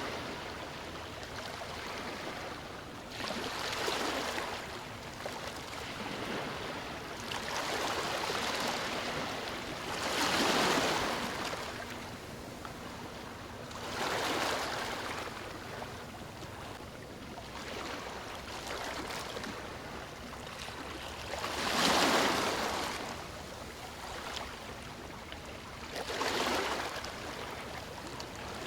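Sea waves breaking and washing on a shore, a swell of surf every three to four seconds over a steady wash of water.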